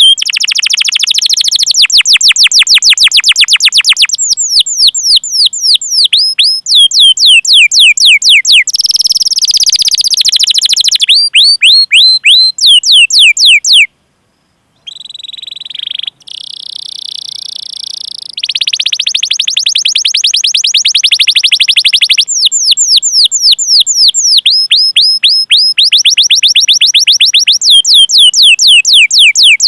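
Domestic canary singing loudly: long runs of rapid, high, downward-sweeping "cuit cuit" chirps, several a second, alternating with fast buzzing rolls. The song breaks off briefly about fourteen seconds in.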